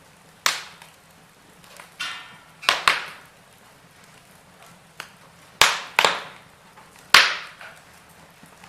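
Wood fire in a fireplace crackling: about eight sharp pops, some in quick pairs, each dying away quickly, with a short hiss about two seconds in.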